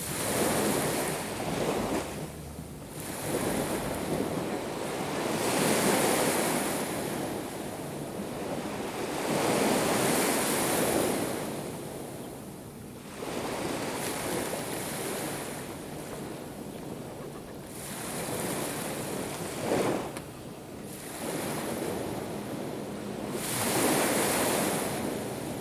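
Black Sea waves breaking on the shore, swelling and washing back in repeated surges every few seconds.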